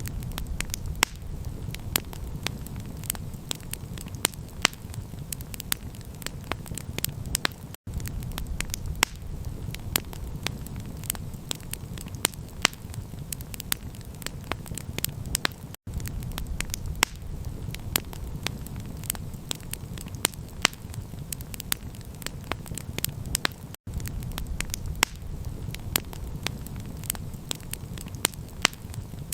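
Campfire crackling: frequent sharp pops and snaps over a steady low rumble. The sound cuts out for an instant about every eight seconds.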